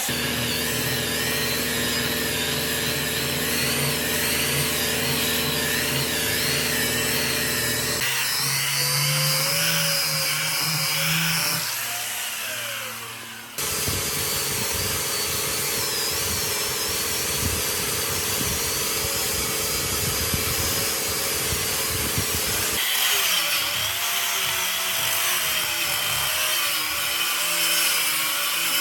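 Hand-held electric power tools running steadily as they work wood, in several edited takes that change abruptly about 8 seconds in, after a brief dip near 13 seconds, and again about 23 seconds in.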